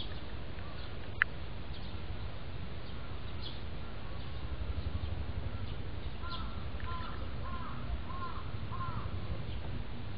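Outdoor ambience with a steady low rumble, one sharp click about a second in, and a bird in the background giving a quick run of short calls from about six seconds in.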